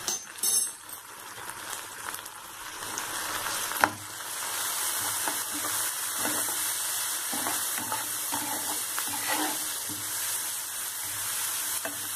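Chopped onions and ground spices sizzling in hot oil in a non-stick frying pan, with a little water added so the masala doesn't burn, while a silicone spatula scrapes and stirs them. A sharp tap comes about four seconds in, and the sizzling is louder after it.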